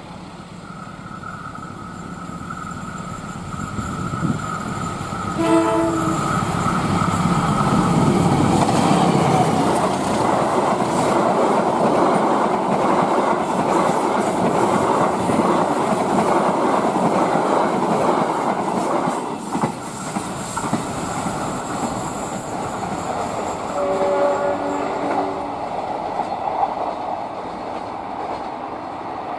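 Diesel-hauled passenger train running past close by, wheels clattering over the rail joints and growing louder over the first several seconds. A short locomotive horn blast sounds about five seconds in, and another near the end.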